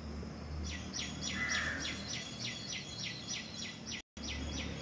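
A bird calling a fast, even series of sharp descending chirps, about four a second, starting about half a second in, over a faint low hum. The sound cuts out for an instant near the end.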